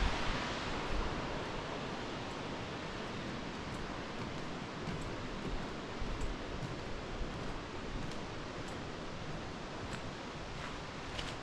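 Steady rushing noise of a waterfall, even and unbroken, with a few faint ticks over it.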